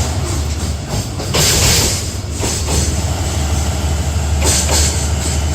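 Freight train wagons rolling past on the rails, with a steady low drone and bursts of hissing wheel-on-rail noise as wheelsets go by.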